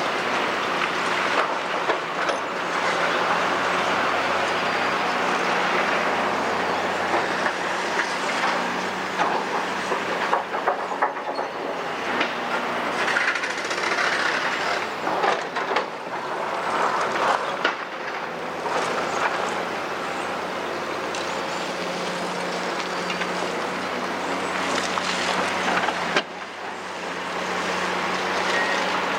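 Large diesel hydraulic excavator running steadily under load while rubble and steel clank and knock irregularly against its bucket and tracks. The sound drops abruptly a few seconds before the end.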